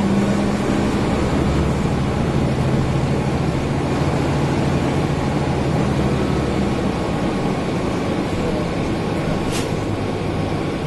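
Mercedes-Benz O405N city bus running, its engine drone mixed with the air-conditioning. The engine note drops in pitch about a second in and then runs steady, with a brief high squeak near the end.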